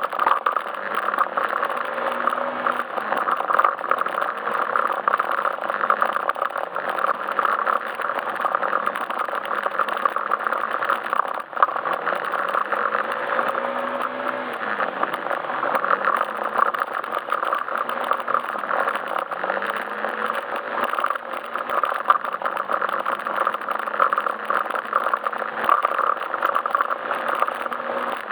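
Yamaha Majesty S scooter's single-cylinder four-stroke engine running on the move, its pitch rising and falling gently as the throttle changes, under steady wind and road noise with some rattle.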